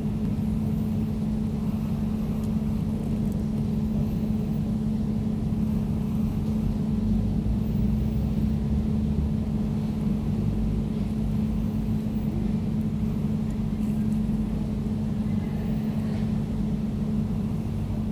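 Air conditioner running steadily: a constant low hum over an even, low rumbling noise.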